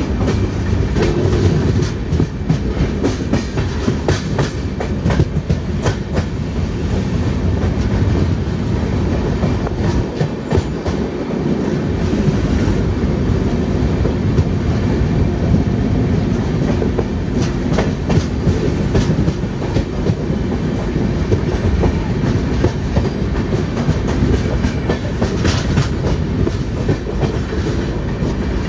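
Passenger train running on the rails, heard from aboard: a steady heavy rumble with the wheels clacking over rail joints at irregular intervals.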